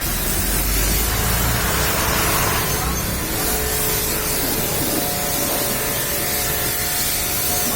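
Steady hiss of a water spray washing a car, with a low rumble that is strongest in the first two seconds or so.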